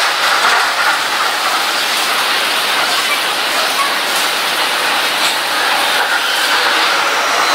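Electric BTS Skytrain train approaching along the elevated track and pulling into the station, its running noise blended with a steady hiss of rain.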